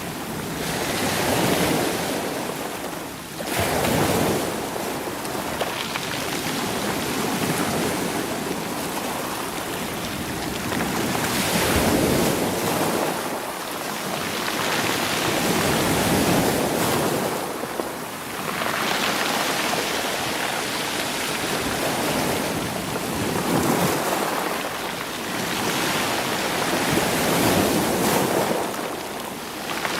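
Sea waves washing against rocks and rolling stones, the surf swelling and easing every few seconds.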